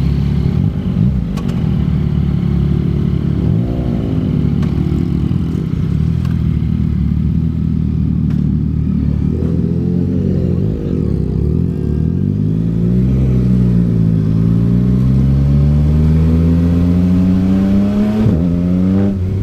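Yamaha MT-09's 890 cc inline-three engine through a Yoshimura R11 exhaust. It runs with two short swells in revs, then climbs steadily in pitch for several seconds as the bike accelerates in gear. The pitch drops sharply near the end with an upshift.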